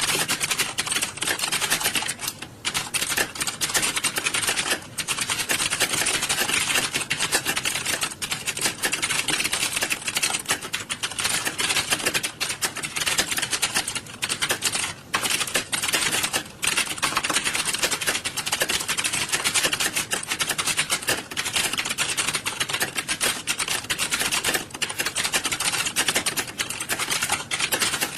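Many computer keyboards being typed on at once, as in an exam-hall typing test: a dense, continuous clatter of keystrokes with a few brief lulls.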